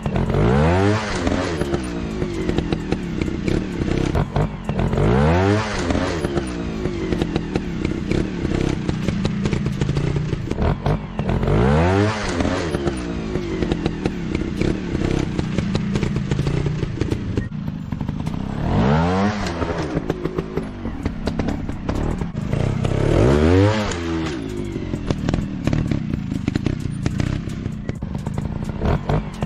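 Motocross bike engine revving up and back down about five times, each rev rising then falling in pitch, between stretches of steady running with a crackling, clattering edge.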